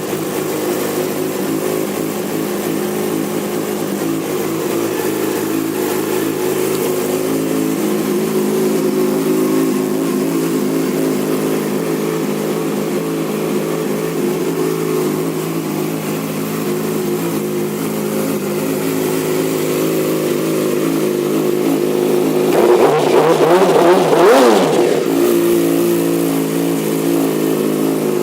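2008 Yamaha YZF-R6's inline-four engine idling steadily through a Two Brothers Shorty aftermarket exhaust. Late on it is revved once, rising and falling back to idle over about two seconds.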